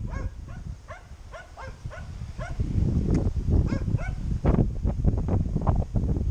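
Dogs barking in a run of short, high yaps, two to three a second, over wind buffeting the microphone, which grows louder about two and a half seconds in.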